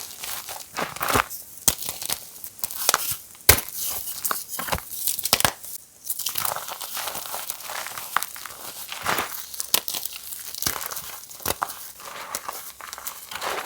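Reformed gym chalk being crushed and crumbling, a run of irregular crisp crunches and crackles with a short pause about six seconds in.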